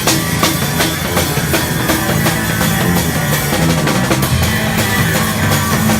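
Punk rock music played loud, with a driving drum-kit beat and a steady bass underneath, between sung lines.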